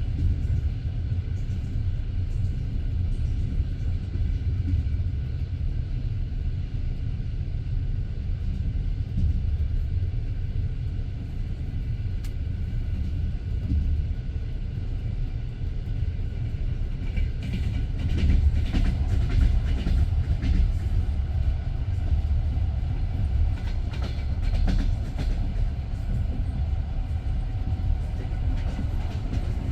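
Passenger train's wheels running on the rails with a steady low rumble. A run of clattering clacks comes a little past halfway, and another shortly after.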